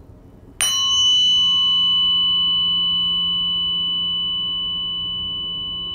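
A tuning fork struck once about half a second in, then ringing with a clear, high, steady tone that slowly fades.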